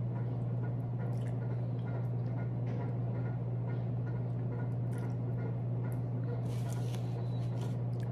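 Close-up mouth sounds of eating braised chicken feet: chewing and sucking the meat off the small bones, with many short wet clicks and smacks. A steady low hum runs underneath and is the loudest sound.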